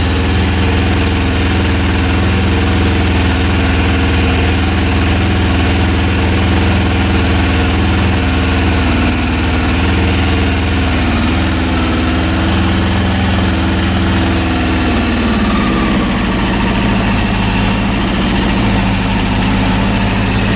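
Honda CB400 inline-four engine running steadily at raised revs, wavering slightly about halfway, then dropping back to a lower idle about three quarters through. No mechanical knocking at the higher revs; the owner puts its uneven low-speed running down to the carburetors and spark system.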